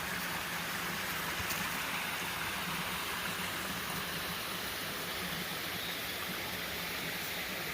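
Mountain creek running: a steady rush of water.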